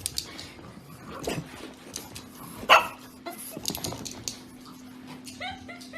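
A dog barking, with one sharp bark about three seconds in, amid scattered clicks and knocks, and a few short whines near the end.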